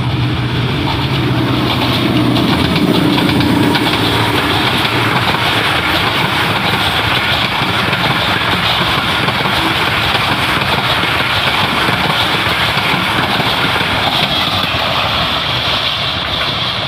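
Diesel locomotive and its passenger train passing close by. A low engine hum is heard in the first few seconds, then a steady rushing rumble of coach wheels running over the rails.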